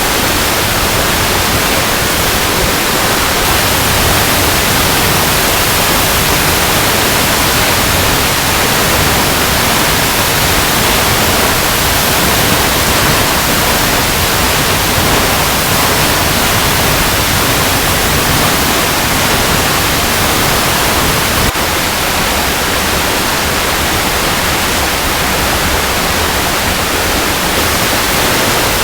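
Waterfall cascading over rocks: a steady, loud rush of falling water, with a slight brief break about three-quarters of the way through.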